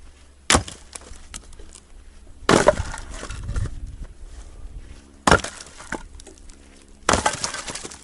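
8-pound splitting maul striking upright pine and spruce sawmill slabs, four sharp blows about two seconds apart. Each blow is followed by wood splitting and pieces clattering, longest after the second and fourth.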